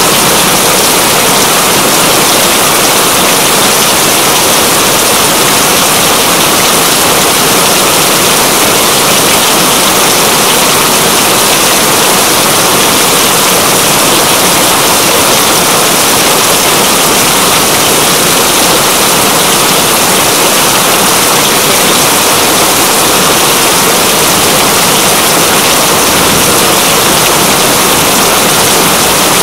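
Steady heavy rain, a dense even hiss that doesn't change.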